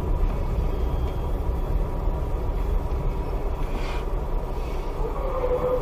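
Steady engine and road rumble of a moving car, as heard from inside the cabin. A steady mid-pitched tone starts near the end.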